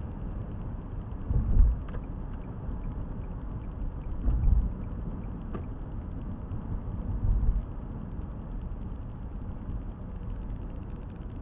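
A car driving, heard from inside the cabin through a dash camera: a steady low rumble of engine and tyres. Three stronger low swells come about three seconds apart.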